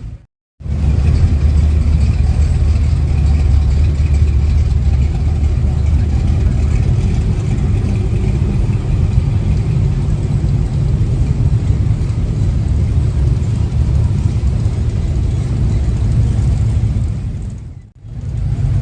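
Vehicle engine running steadily, a low rumble. It drops out briefly just after the start and dips again near the end.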